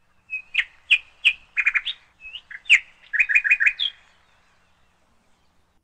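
A bird chirping: two phrases of high, sharp chirps, each ending in a quick run of four or five notes, stopping about four seconds in.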